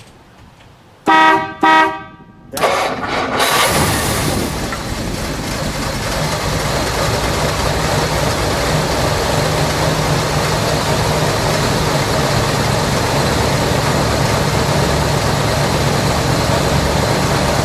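A 1955 Dodge Custom Royal Lancer's horn sounds two short blasts. About two and a half seconds in, its Super Red Ram Hemi V8 cranks and catches, then settles into a steady idle through a non-stock exhaust.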